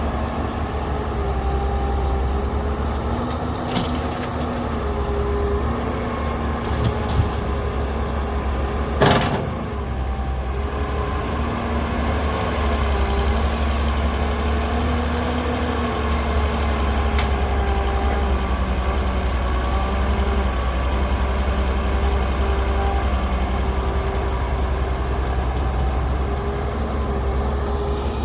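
Heavy construction machine's diesel engine running steadily, with a low rumble and wavering whining tones, and one sharp clank about nine seconds in.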